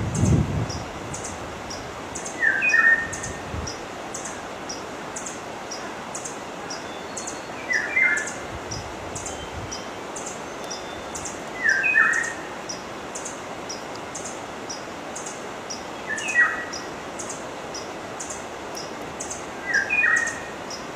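A forest bird calling: a short two-part falling call repeated about every four seconds, five times in all. Behind it runs a steady high ticking, about two a second, and there is a brief low rumble right at the start.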